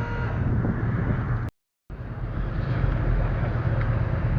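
Steady low rumble of car engines running, mixed with outdoor background noise. The sound cuts out completely for a moment about a second and a half in, then returns.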